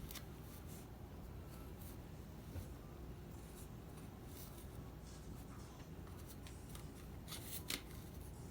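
Faint scrapes and rubs of prefabricated furnace wall pieces being handled and lined up, a few short scrapes spread out with a small cluster near the end.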